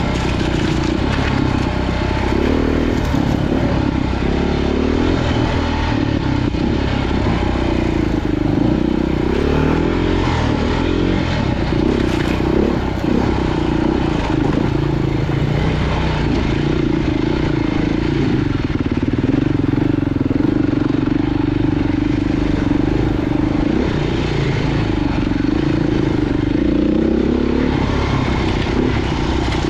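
Dirt bike engine running hard on a trail ride, its pitch rising and falling continuously as the throttle opens and closes.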